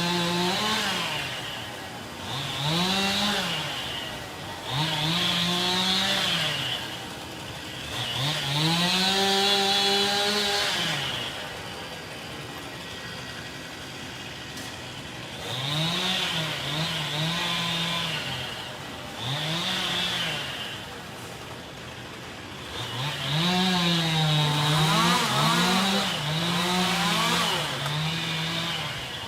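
Two-stroke chainsaw revving up and down in about seven bursts of one to three seconds each, falling back toward idle between them.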